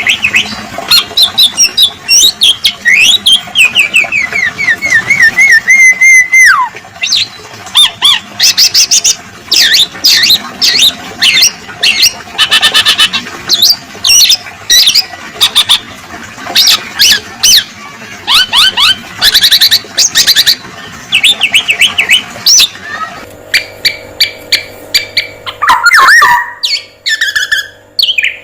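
Male black-naped oriole song played as a masteran training recording: a dense, loud run of rapid chirps, whistles and harsh squawking calls, with a wavering trill falling in pitch a few seconds in. A steady low hum joins underneath near the end.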